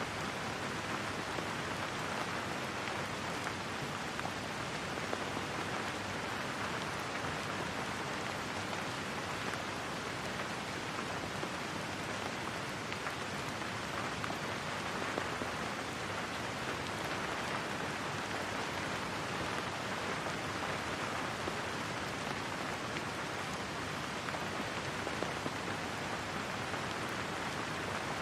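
Steady rain falling on a surface, an even hiss of drops with no let-up.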